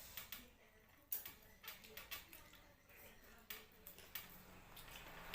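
Quiet eating sounds: a few faint, short clicks and smacks spread over several seconds, as a meal of fish-head curry and rice is eaten.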